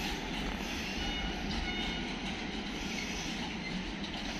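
Intermodal container freight train rolling past steadily, its wagons giving a continuous rumble, with a few faint, brief high wheel squeals about a second and a half in.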